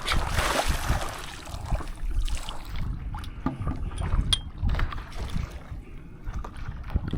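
Stand-up paddle strokes splashing in seawater, with a burst of splashing in the first second and small clicks and drips after, over wind buffeting the microphone.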